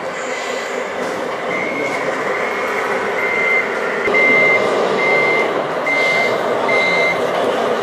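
A vehicle reversing alarm sounds about seven short, evenly spaced beeps, roughly one a second, starting about a second and a half in, over a steady background of noise.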